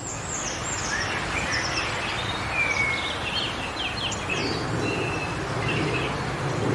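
Wind blowing through a forest, a steady rushing that swells a little past halfway, with small birds chirping and whistling throughout.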